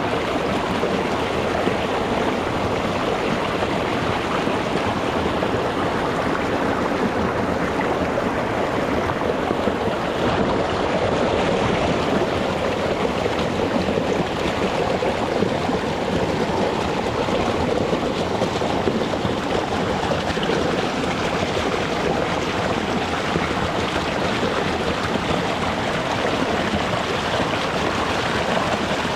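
Small rocky mountain stream rushing and splashing over stones, a steady, even water noise.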